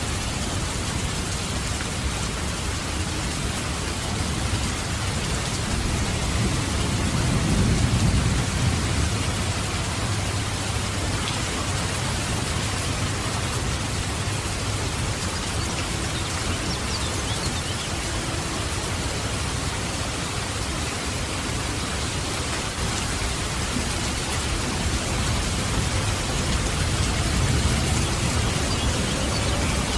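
Steady rain with low rolls of thunder: one swells about a quarter of the way in, and another comes near the end.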